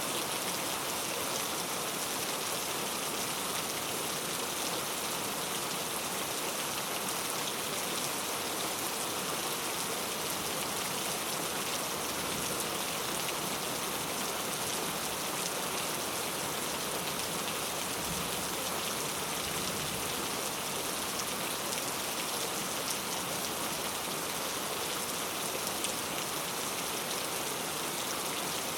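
Heavy rain falling steadily on mango tree leaves: a dense, even patter of drops.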